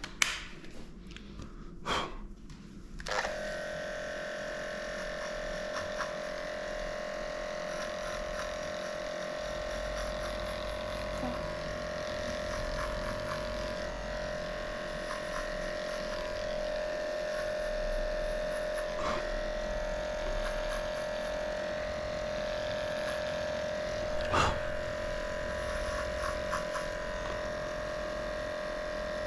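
Electric pet clipper switched on about three seconds in and running steadily while shaving a dog's paw pads, with a few clicks before it starts and a sharp knock later on.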